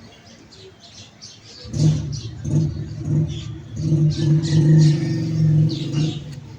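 A motor engine runs loudly and steadily for about four seconds, starting a couple of seconds in, while small birds chirp rapidly throughout.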